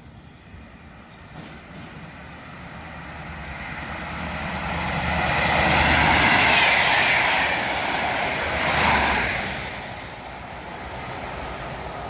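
Colas Rail Class 43 HST power cars hauling a Network Rail test train past at speed: the diesel engine and wheel-on-rail noise grow, peak about six seconds in, swell again about nine seconds in as the second power car passes, then fade away.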